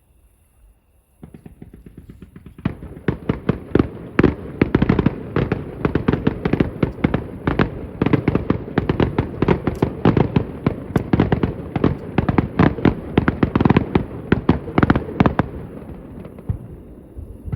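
Fireworks display in a rapid-fire barrage: after a quiet first second, shell bursts and reports start coming many times a second and soon pile into a dense, continuous run of bangs, easing slightly near the end.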